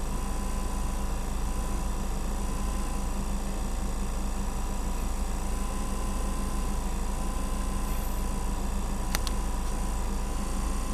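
Steady low hum and hiss with steady tones and no change over time, with a single brief click about nine seconds in.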